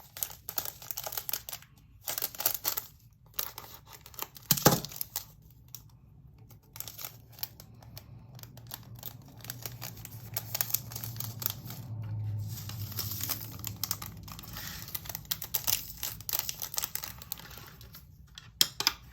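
Plastic bag of diamond painting resin drills being handled and opened, crinkling and tearing, with many small sharp clicks.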